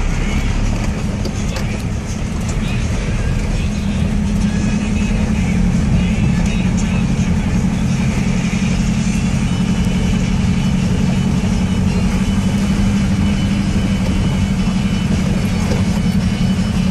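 Land Rover Defender engine running steadily while driving, heard from inside the cabin, with a strong low hum that grows a little louder about four seconds in.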